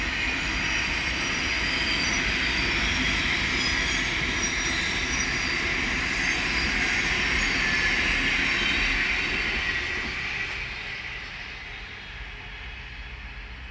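Thameslink Class 700 electric multiple unit passing, a steady rush of wheels on rail with thin high-pitched whining tones above it. The sound fades away after about ten seconds as the train recedes.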